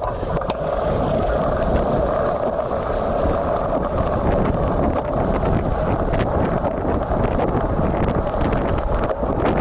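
Strong typhoon wind buffeting the built-in microphone of an action camera on a moving road bike: a steady, loud rumble with crackling throughout.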